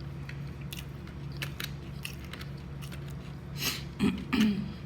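Close-up mouth sounds of someone chewing and biting food, with small wet clicks, over a steady low hum. A louder pair of eating sounds comes about four seconds in.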